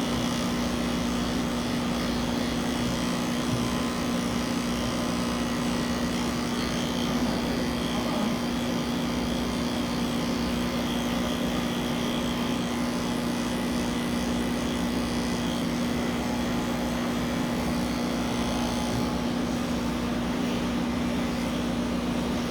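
Electric pet clippers running steadily with a constant low hum.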